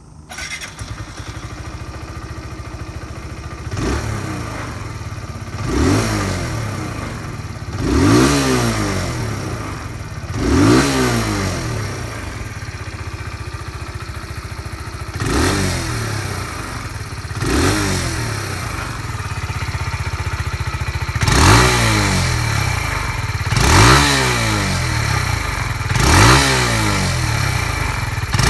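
Kawasaki Z125 PRO's 125 cc single-cylinder four-stroke engine idling and blipped about nine times. Each blip is a short rise and fall in pitch, coming every two to three seconds. The revs stay modest because the engine is still being run in.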